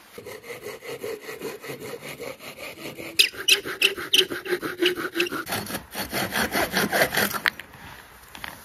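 A hand saw cutting through a small piece of wood in repeated back-and-forth strokes, lighter at first and then louder and harder from about three seconds in, stopping shortly before the end. The offcut is being made into a spacer gauge.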